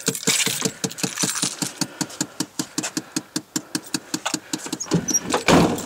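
1994 Chevy K1500's 350 V8 running at idle with a rapid, even clicking, about ten clicks a second. A louder rush of noise comes about five seconds in.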